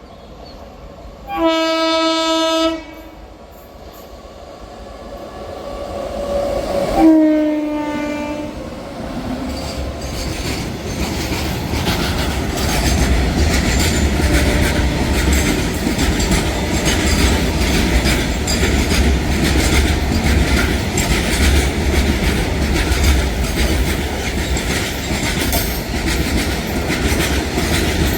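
Train horn sounding one steady blast, then a second blast that drops in pitch as the train passes. The train then runs by with a continuous rumble and wheels clicking over the rail joints.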